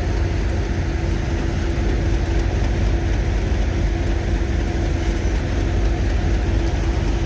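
Diesel locomotive engine idling steadily: a low rumble with a constant hum.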